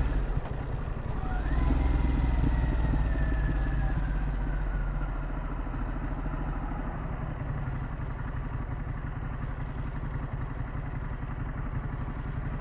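Harley-Davidson Pan America's V-twin engine through a Vance & Hines exhaust while riding. The engine revs up about a second and a half in, then its pitch falls slowly over the next few seconds and it settles into a steady cruise.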